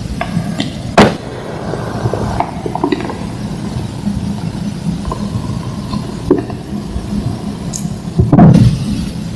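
Thick slabs of homemade green gym chalk being crushed and crumbling, with a sharp snap about a second in, small cracks and crumbles after it, and a longer, louder crunch near the end.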